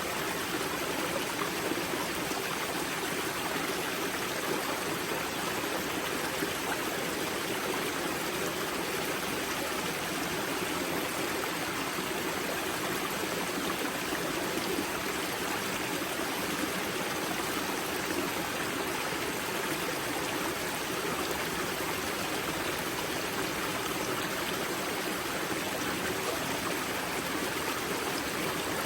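Water of a river's spring source flowing and splashing, a steady, even rushing with no breaks.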